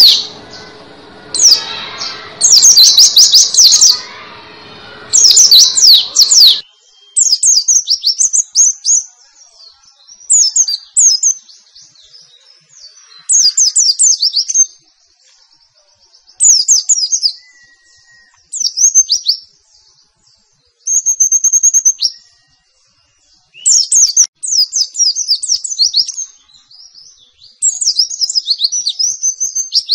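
White-eye (pleci) singing in its rapid 'nembak' style: loud bursts of high, fast chirping phrases, each a second or two long, with short pauses between. Background noise sits under the first few seconds and then drops away.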